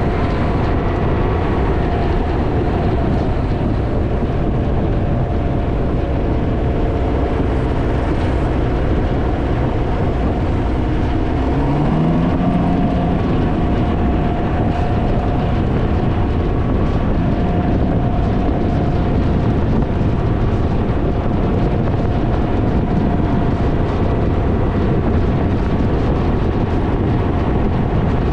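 Heavy wind buffeting on the microphone of a Can-Am Ryker three-wheeler at riding speed, with the engine's steady drone underneath. About twelve seconds in, a low tone rises briefly as the engine note climbs.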